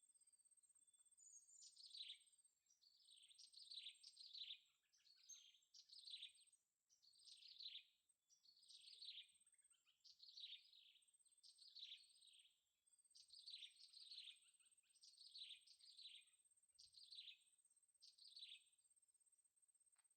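Faint, high, thin calls of blue-crowned hanging parrots (serindit): short falling chirps repeated about once a second, often in quick pairs, over a faint steady high hiss-tone.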